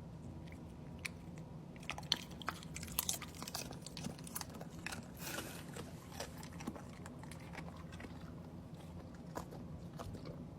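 Chewing and crunching: irregular crisp crunches and clicks, busiest in the middle, over a steady low hum.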